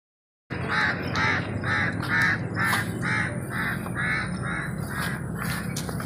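A bird calling in a rapid, even series of short calls, a little over two a second, starting abruptly about half a second in.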